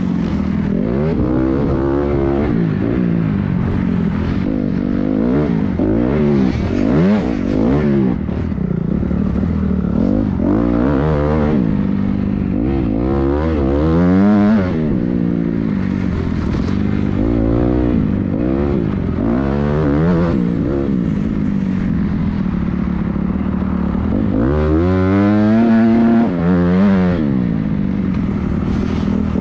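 Several motocross dirt bikes running on a track, their engines revving up and falling back over and over as they ride the course, with more than one bike heard at once. One bike passes loudest near the end.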